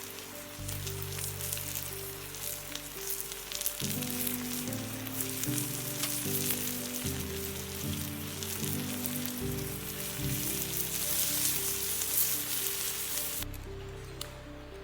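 Food frying in a pan, a steady sizzle with fine crackles, over soft background music; the sizzle cuts off suddenly near the end, leaving only the music.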